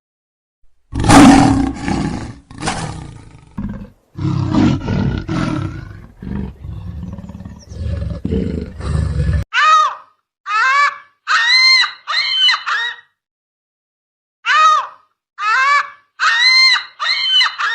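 Lion roaring in several loud, rough bouts. About halfway it cuts to a different animal: short, high-pitched arched calls, each under half a second, in two clusters of four or five.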